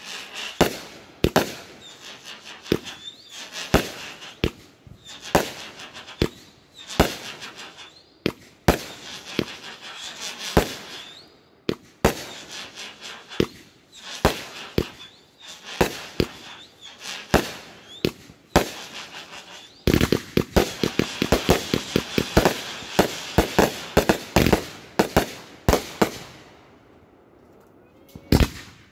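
Consumer aerial fireworks firing one after another in a fused sequence, a sharp report about every second, each trailed by crackling hiss. About two-thirds of the way in, a dense rapid barrage of cracks runs for several seconds, then dies away.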